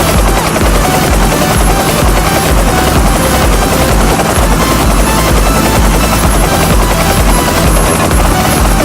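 Helicopter rotor sound, loud and steady, with an even rapid beat in the low end.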